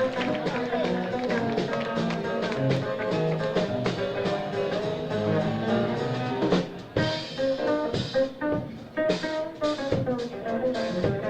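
Live jazz quartet of piano, tenor saxophone, acoustic bass and drum kit playing an up-tempo tune. About six and a half seconds in, the flowing lines give way to short, choppy stabs with sharp drum hits.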